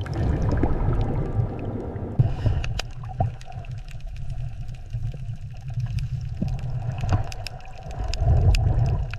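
Low rumbling water noise with scattered sharp clicks and pops, as heard underwater.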